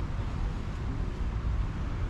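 A steady, low rumble of outdoor background noise, with no distinct event standing out.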